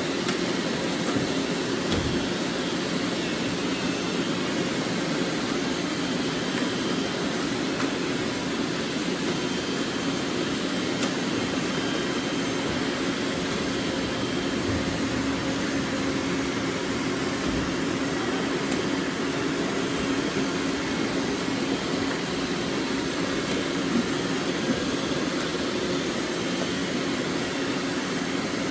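Robot vacuums running: a steady whir of suction fans and brush motors, with a low hum that holds its pitch.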